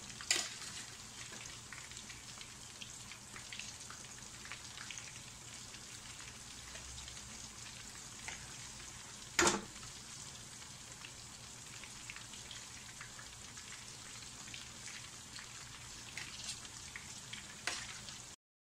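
Chicken pieces deep-frying in oil in a wok: a steady sizzling hiss with scattered crackling pops, and one sharp, louder click about halfway through.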